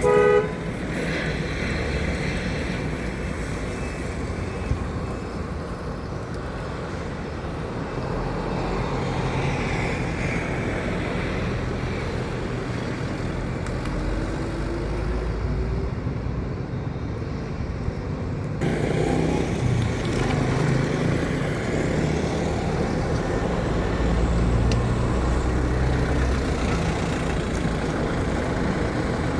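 Road traffic dominated by the low running of heavy truck engines passing by, with tyre and road noise. A horn toot cuts off just at the start, and the background changes abruptly about two-thirds of the way through.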